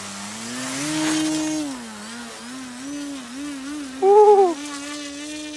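Electric motor and propeller of an E-flite Timber X RC plane whining, its pitch rising as the throttle opens about half a second in, dropping after a second or so, then wavering with throttle changes before settling to a steady note. About four seconds in, a short loud whoop of a man's voice.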